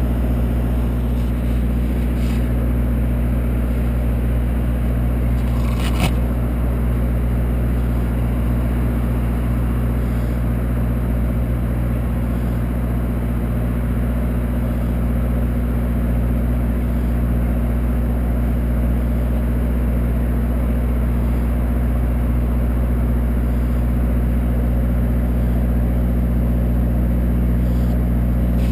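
An engine idling steadily, a constant low hum, with a short sharp click about six seconds in.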